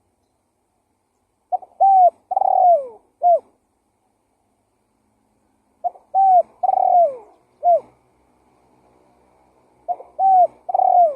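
Spotted dove (tekukur) cooing: three repeated phrases about four seconds apart. Each phrase has a few short hooked coos and one longer coo that falls in pitch.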